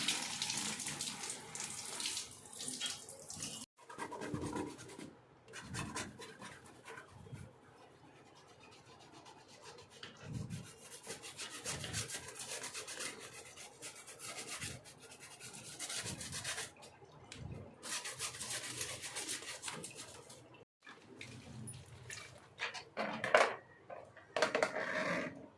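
A brush scrubbing wet air-conditioner parts, with water splashing, in stretches that come and go.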